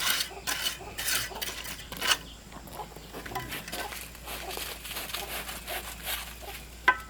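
Irregular scraping of a utensil against a pot or pan, quieter through the middle, with a few sharp metallic clinks near the end.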